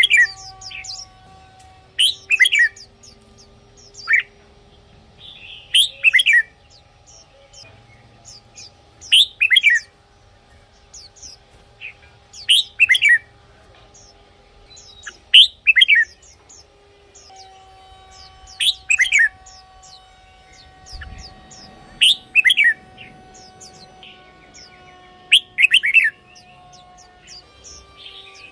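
Red-whiskered bulbul singing short, loud phrases of a few quick falling whistled notes, one phrase about every three seconds.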